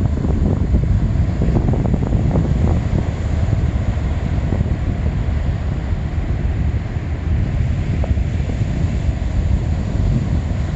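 Wind buffeting a smartphone's microphone in gusts, over the steady wash of sea surf.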